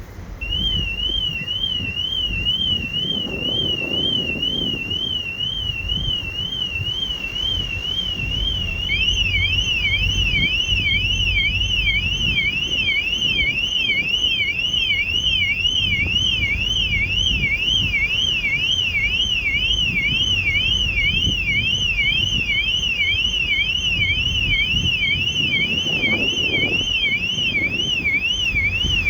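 Two car alarm sirens warbling rapidly, one starting just after the beginning and a second with a wider, slower sweep joining about nine seconds in, over a low rumble.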